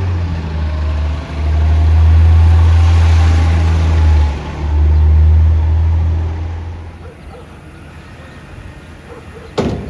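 Peterbilt 320 garbage truck running with a loud low drone and a faint rising whine over it. The drone dips briefly twice, then fades out about seven seconds in, and a sharp knock sounds near the end.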